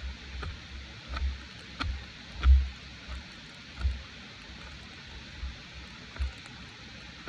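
Steady hiss of rain falling, with irregular dull thuds and light taps scattered through it, the loudest about two and a half seconds in.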